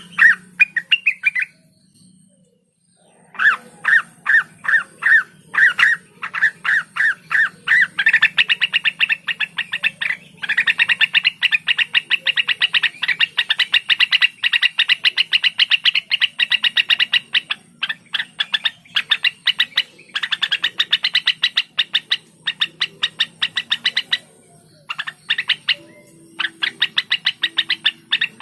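Cucak wilis (rengganis) bird singing in long, fast runs of sharp repeated notes. The notes come about four a second at first and then speed up into dense rattling strings. There is a short break near the start and another about 24 seconds in.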